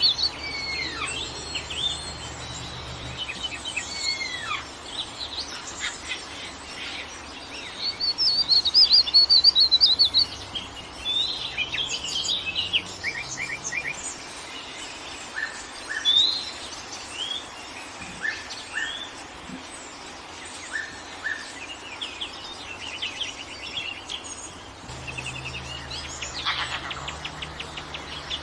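Several songbirds calling and singing over one another: short whistled notes, chirps and rising slurs, with a fast, loud trill about a third of the way in, over a faint background hiss.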